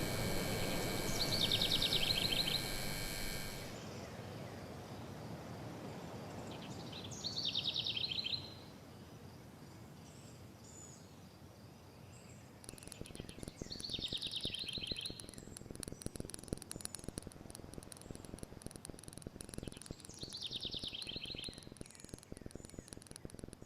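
Soundscape with a recorded bird song: the same short, falling trill repeated four times, about six seconds apart, over a steady hiss. A buzzing hum runs through the first few seconds, and a fine crackling comes in about halfway through.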